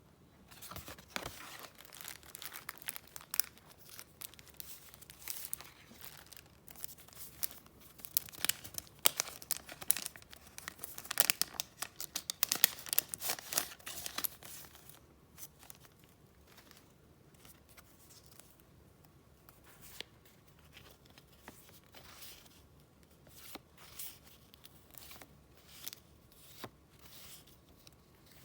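Paper and wrapping being handled by hand: dense crinkling and rustling, loudest around the middle, then thinning to scattered small taps and rustles in the second half.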